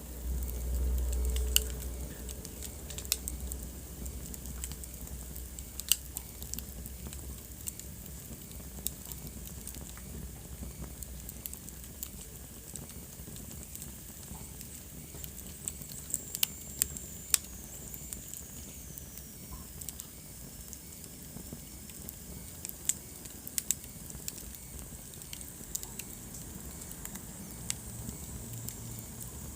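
Wood fire burning in a fireplace, crackling with irregular sharp pops over a steady low hiss and rumble. A faint high whistle slides down in pitch for a few seconds past the middle.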